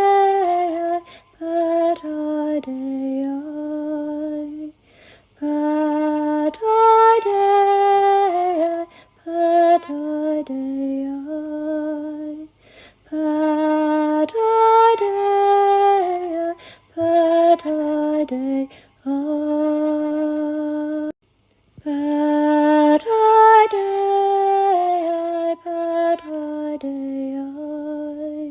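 Unaccompanied female voice singing slow, wordless chant-like phrases, with short silences between them; a similar melodic phrase comes back about every seven to eight seconds.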